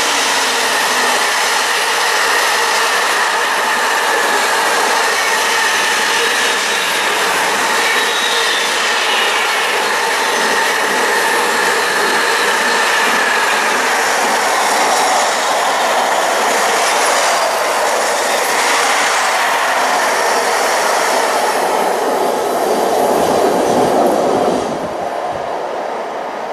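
Long container freight train passing close at speed: a steady rattle and rumble of wagon wheels on the rails and rail joints, with a thin high wheel squeal through the first half. The noise drops away as the last wagon passes near the end.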